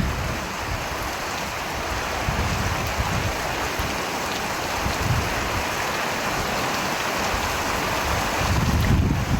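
Steady, heavy rain falling, with low rumbling swells coming and going and the strongest near the end.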